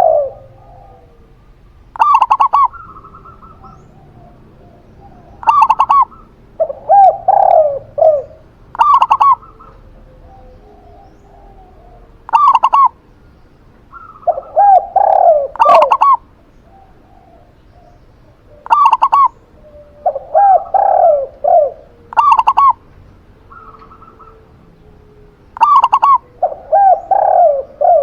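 Zebra dove (perkutut) and spotted dove (tekukur) cooing in turn: a short, higher call repeats about every three and a half seconds, and a longer, lower cooing phrase falls between some of them.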